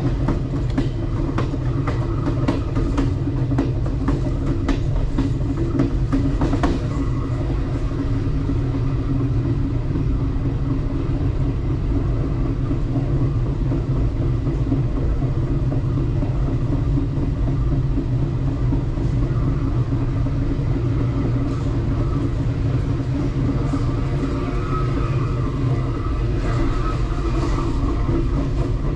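Passenger train rolling along the track: a steady low rumble from the moving cars, with sharp clicks and knocks from the wheels on the rails, thickest in the first seven seconds and again near the end.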